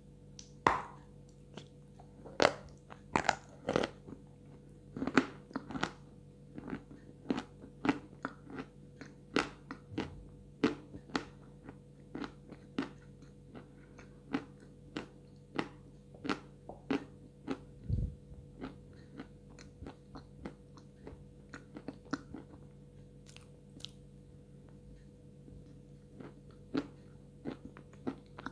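Close-miked crunching and chewing as a person bites pieces off a white block of edible chalk. A few loud, sharp crunches come in the first few seconds, then a steady run of smaller crunches that thins out near the end, over a faint steady hum.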